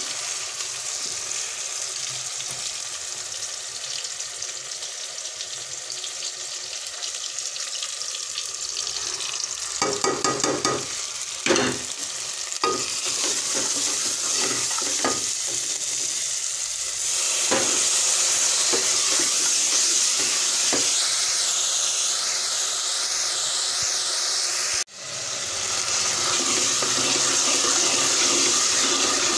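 Onions, tomatoes and spices sizzling as they fry in an aluminium pot, stirred with a wooden spoon. There are a few knocks against the pot about ten to thirteen seconds in, and the sizzle grows louder from a little past halfway.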